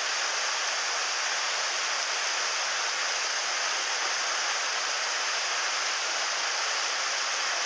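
Mountain stream water rushing steadily over rocks, an even hiss.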